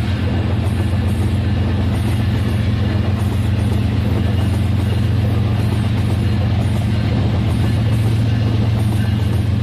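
Remote-control toy train running on its plastic track: a steady motor hum under a fast, even rattle of wheels and gears.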